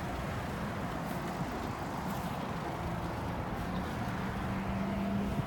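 2002 Ford Focus ZTW wagon's 2.0-litre Zetec four-cylinder engine idling, a steady low hum that grows a little stronger in the second half.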